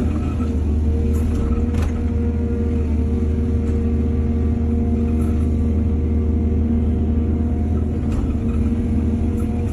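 Heavy construction machine's diesel engine running steadily with a deep rumble, with a few faint knocks.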